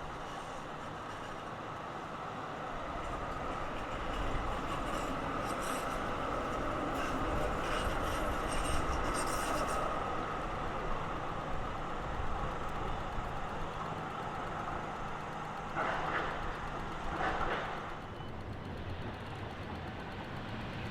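Melbourne B-class articulated tram running through a tight street curve: a steady rail and running noise that swells to its loudest about halfway, then eases, with two brief louder sounds near the end.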